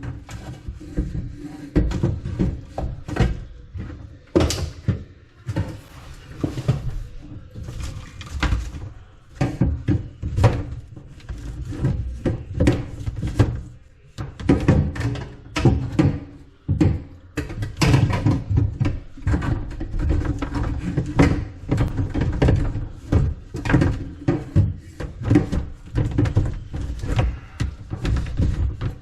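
Irregular knocks, thunks and clatter of hand work, with music playing in the background.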